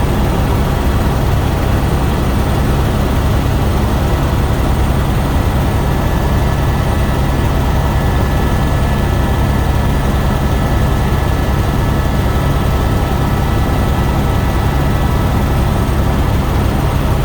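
Tour helicopter in flight, heard from on board: a loud, steady drone of rotor and engine, with a faint steady whine above it.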